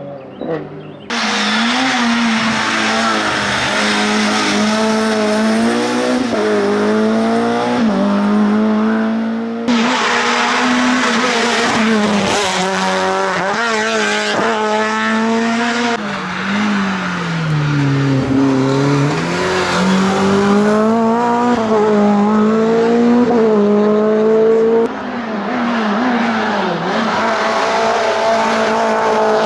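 Racing car engines on hillclimb runs, revving hard with the pitch rising and falling through gear changes and braking. The sound changes abruptly about a second in and again about ten seconds in.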